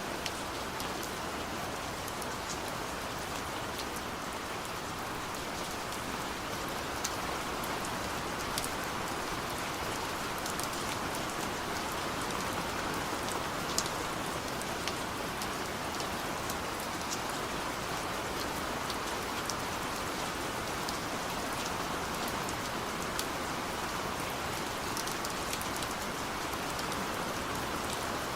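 Steady rain falling: a constant even hiss, with scattered sharp ticks of single drops striking a surface.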